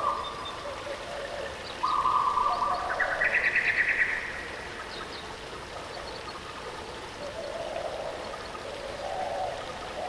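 Steady rush of waterfall water with birds singing over it: a held whistled note about two seconds in, then a fast, higher trill, with scattered high chips and softer, lower calls near the end.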